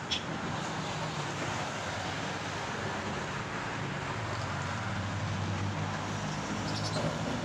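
Steady road traffic and engine noise with a low hum, a sharp click at the very start and a few light clicks near the end.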